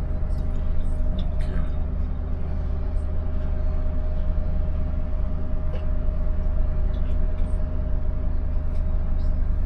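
Steady low rumble and hum inside a passenger train carriage standing at the station, with one constant tone over it and a few faint clicks.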